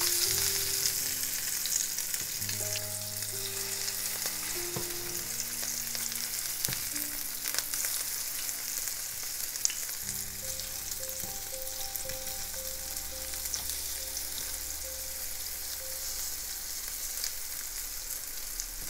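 Chicken fritters sizzling steadily in shallow oil in a non-stick frying pan as they are turned over with a silicone spatula, with a few light clicks.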